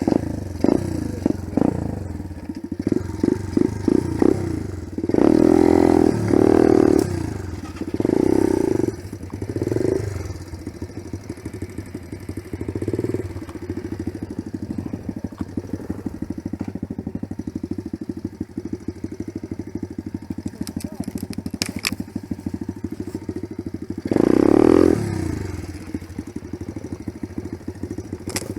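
Dirt bike engine running at a low, evenly pulsing speed, with a series of short throttle blips and revs in the first third and one more loud rev near the end.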